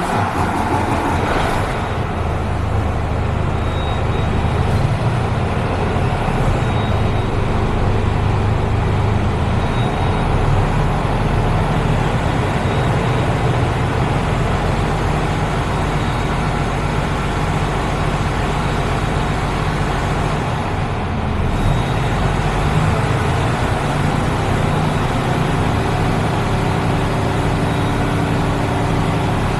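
Mercedes-Benz Actros tractor unit's straight-six Euro 6 diesel engine starting in the first couple of seconds, then idling steadily.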